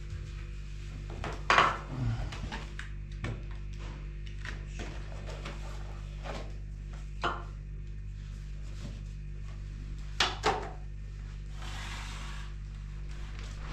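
Scattered knocks and clicks of hard objects being handled, the loudest about one and a half seconds in and a quick pair about ten seconds in, over a steady low hum.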